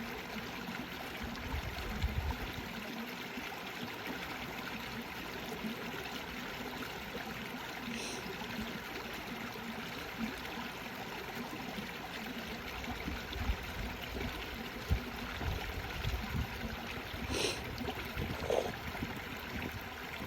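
Small brook babbling steadily as it runs under snow cover, an even rush of water with a few low thumps along the way.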